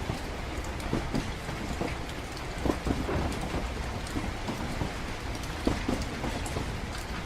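Train-ride ambience: a steady low rumble under rain pattering, with scattered knocks, the loudest about a third of the way in and again near the end.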